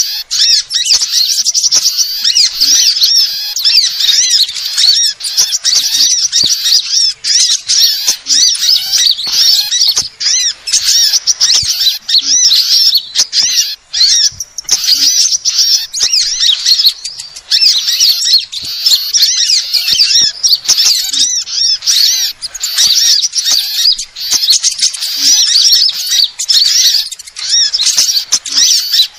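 Bird-lure recording of sunbirds: dense, continuous high-pitched chirping and twittering from many small birds at once, with a faint low note every few seconds.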